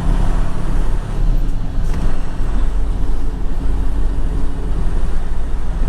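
Semi truck's diesel engine running steadily, a loud low drone.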